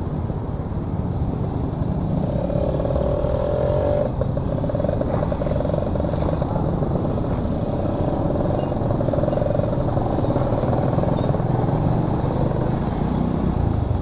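Honda Win 100 motorcycle engine running steadily under way, with a held engine note through the middle and steady road and wind noise.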